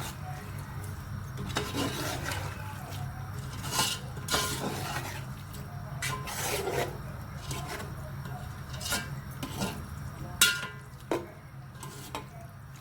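A spoon scraping and stirring thick masala in a metal cooking pot, with scattered scrapes and a few sharp clinks against the pot, the loudest about two-thirds of the way through. A steady low hum runs underneath.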